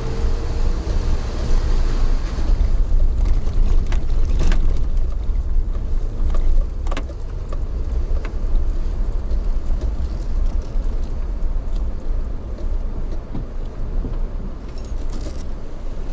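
Steady low rumble of a moving vehicle, with light rattling and a few sharp clicks now and then.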